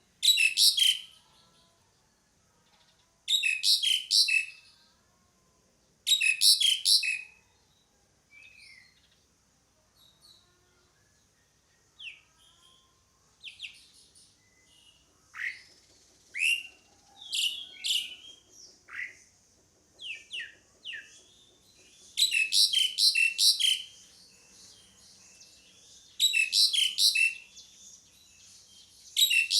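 Asian pied starling calling: loud harsh chattering bursts of about a second, repeated every few seconds, with a run of short separate whistled and sliding notes in the middle.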